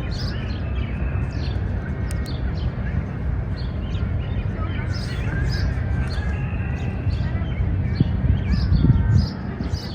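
Outdoor park ambience: many birds chirping over a steady low rumble of city noise. The rumble swells and then falls away just before the end.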